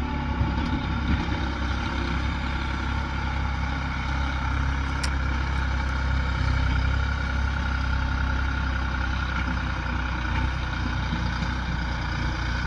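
New Holland 5500 tractor's diesel engine running steadily while pulling a laser land leveler.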